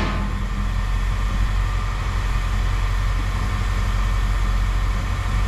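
An engine idling steadily: a constant low rumble with no change in speed.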